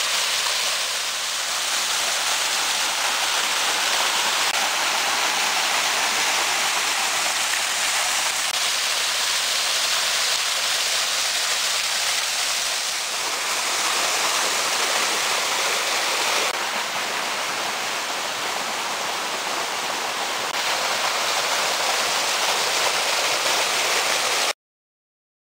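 Waterfall: a steady rush of falling water that stops abruptly near the end.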